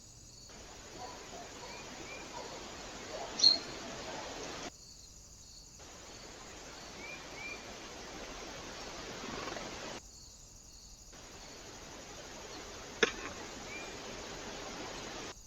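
Steady hiss from a trail camera's microphone across three short clips cut together, with a few faint short chirps and two sharp clicks, the louder one about three and a half seconds in.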